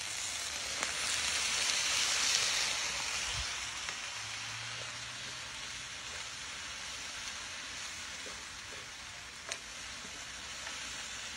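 Skillet of sliced peppers, onion, carrot and potato sizzling over a gas flame after a little water was added, as it is stirred with a spoon. The sizzle swells about two seconds in, then settles to a steady, quieter sizzle, with a faint click of the spoon near the end.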